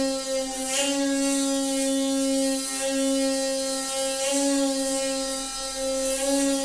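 Noisy water pipe droning: a steady pitched hum with many overtones over a hiss of rushing water, surging briefly about a second in and again past the middle.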